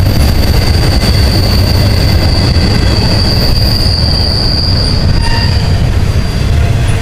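Intermodal freight train's double-stack container cars and trailer flatcars rolling past: a loud, heavy rumble of wheels on rail, with a steady high-pitched wheel squeal that fades out about six seconds in.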